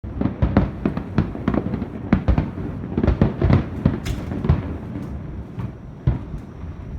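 Aerial fireworks bursting in rapid succession, many sharp bangs close together, thinning to a few spaced booms after about four and a half seconds.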